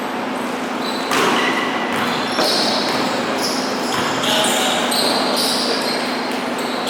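Basketball play in a gym: sneakers squeaking repeatedly on the court in short, high squeals, with a few ball bounces, over a steady hum in the hall.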